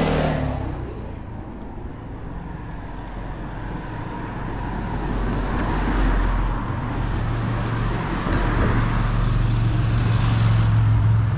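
Road traffic: a car passes and fades in the first couple of seconds, then another vehicle's engine hum grows steadily louder, loudest near the end.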